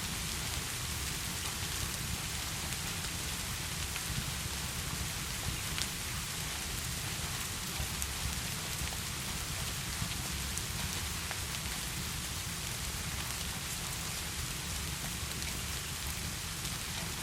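Steady heavy rain falling, an even hiss with a low rumble underneath and a few small sharp ticks scattered through it.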